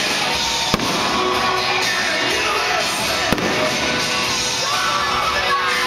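Music playing throughout a fireworks show, with two sharp firework bangs cutting through it, one under a second in and one a little past three seconds in.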